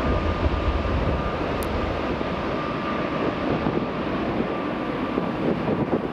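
Jet airliner engines running, a steady high whine over a broad noise, the deep rumble dropping away after about a second and a half, with wind on the microphone.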